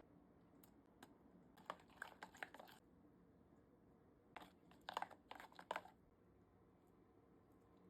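Two short runs of light, rapid clicks and crackles, about two seconds in and again about four and a half seconds in, each lasting about a second.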